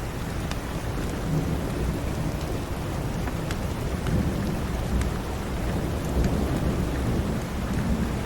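Steady rain with a low rolling rumble of thunder that swells and fades through the middle, and a few sharp crackles of a wood fire in a fireplace.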